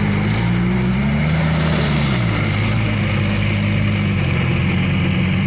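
Dump truck's diesel engine running steadily, revving up for about a second and then dropping back.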